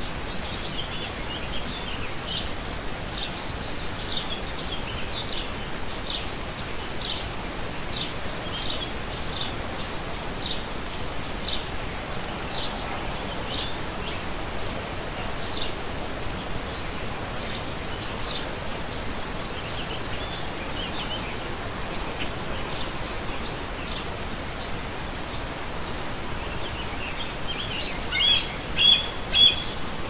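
Bird calls: short high chirps repeated about once a second, thinning out after about twenty seconds, then a louder flurry of calls near the end, over a steady hiss of outdoor background noise.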